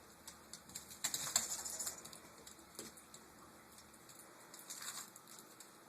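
Light, scattered clicks and crinkles from a dog handling wrapped Halloween candy, busiest about one to two seconds in.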